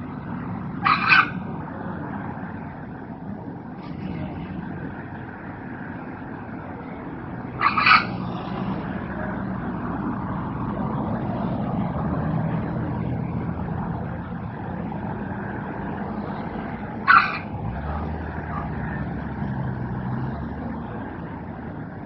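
Red wattlebird giving three short, harsh calls spaced several seconds apart, over a steady low background rumble.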